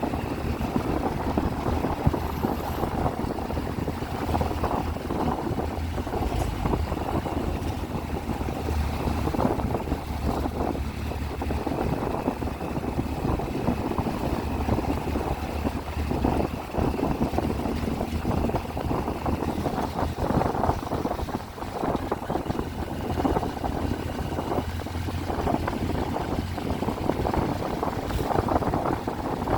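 Triumph Tiger 800's three-cylinder engine running as the motorcycle is ridden, with wind rushing over the microphone.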